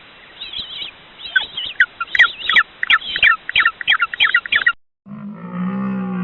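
A bird calling: a rapid series of sharp chirps, coming faster toward the middle, for about five seconds. After a short gap, a deep, low-pitched call begins near the end.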